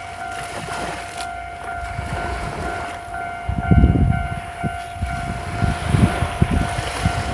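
Seashore ambience: wind gusting on the microphone, getting stronger about halfway through, over surf. A steady, unchanging droning tone runs underneath.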